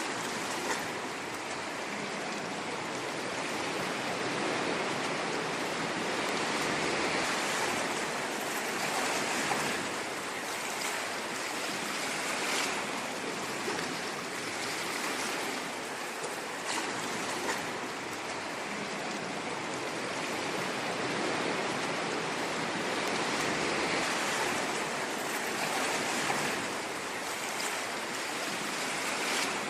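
Sea waves washing on a shore: a continuous rush of water that slowly swells and eases, with a few brief splashes.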